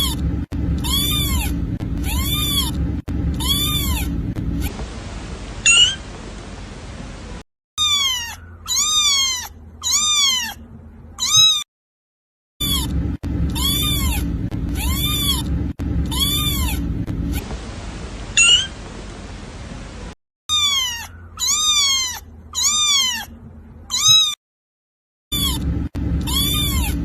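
Kitten meowing in runs of three or four short, high mews, each rising then falling in pitch, with brief silent gaps between the runs. A low steady rumble sits under some of the runs.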